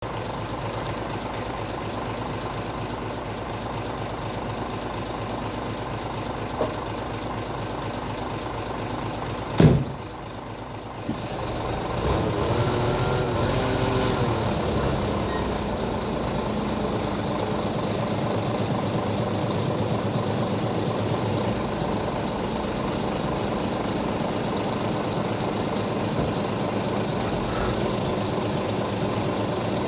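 Scania hook-lift truck's diesel engine idling steadily, with a short loud burst about ten seconds in. Around twelve seconds in the engine speeds up and keeps running at raised revs.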